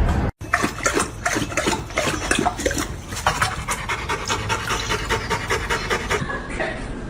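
A dog panting rapidly and audibly, in quick noisy breaths.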